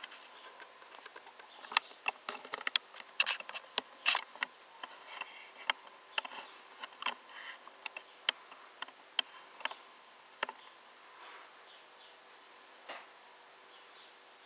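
Irregular small clicks and taps from a 1:18 diecast model car being handled, over a faint steady hum.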